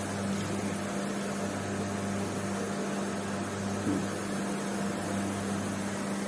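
Steady low machine hum over an even background noise, with one faint knock about four seconds in.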